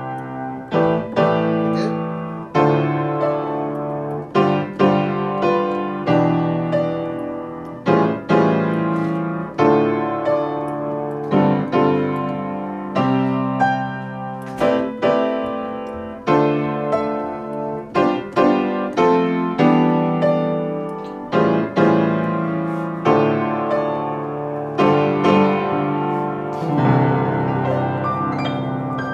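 Piano (keyboard) playing a highlife movement in C: a 1-6-2-5 chord progression with combined chords, struck in a steady, repeated rhythm.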